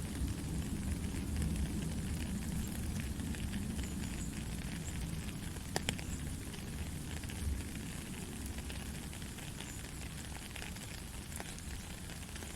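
Soft, steady rain with a scatter of small pattering drops, one sharper tick of a drop near the middle.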